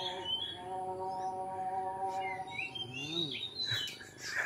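Oriental magpie-robin (kacer) singing short, gliding whistled chirps, over a steady low hum.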